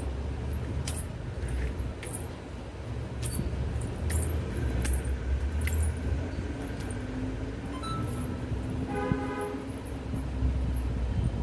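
Four pairs of anklets worn together, jingling in irregular bright chinks as the feet move, over a low rumble. A held pitched tone, like a horn, sounds for about a second about nine seconds in.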